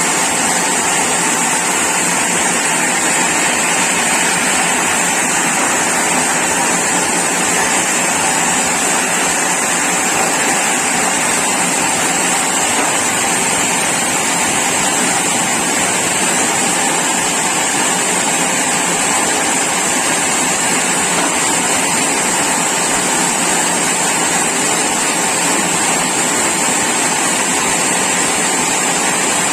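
Sawmill saw running steadily: an unbroken rushing noise with a high whine over it, holding one level throughout.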